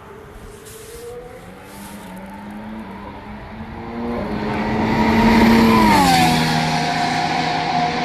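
Alpine A521 Formula 1 car's 1.6-litre turbocharged V6 approaching at speed, growing louder and rising in pitch. About six seconds in it passes by with a sharp drop in pitch.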